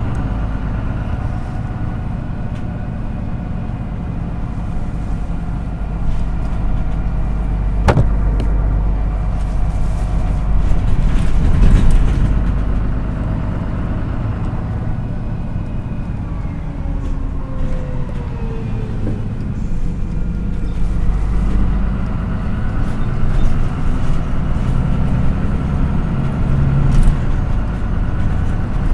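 MAN NÜ 313 bus's diesel engine running, heard from inside the passenger cabin, with a sharp click about 8 seconds in and the engine note shifting now and then.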